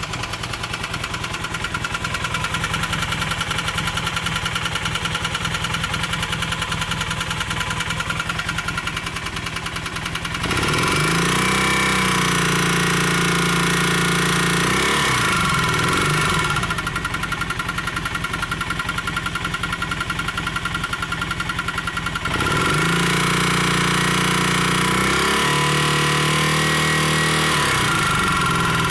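Honda CM400's air-cooled parallel-twin engine running with a rapid, even knock. It idles at first, then is revved up and held at a higher speed twice, about ten and about twenty-two seconds in. The knock is the engine fault the owner is unhappy about.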